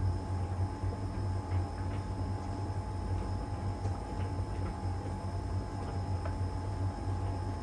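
LG heat pump tumble dryer running steadily in the drying phase: a strong low hum with a steady whine above it, and a few faint light ticks from the tumbling drum.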